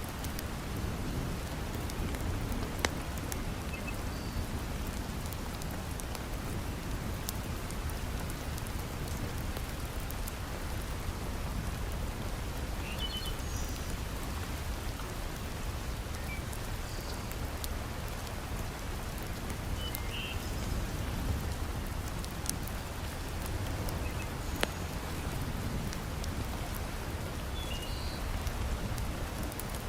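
Heavy rain falling steadily, with a deep low rumble under it, and scattered sharp crackling pops from a wood fire burning in a fireplace.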